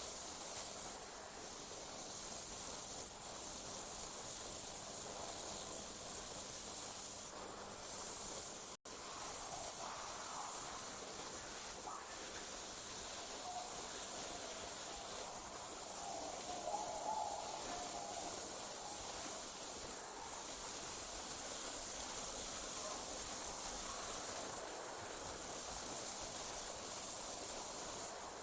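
Night insects trilling in a continuous high-pitched chorus, broken by short gaps every few seconds.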